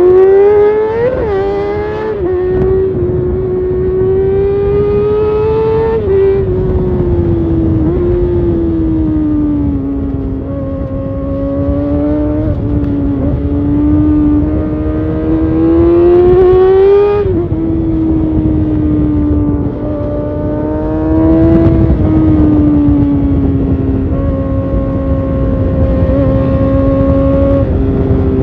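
Kawasaki Ninja ZX-6R inline-four through an Arrow Competition titanium race exhaust, running under way with the revs climbing and falling. The pitch rises steadily and then drops sharply twice, about a fifth and three fifths of the way through.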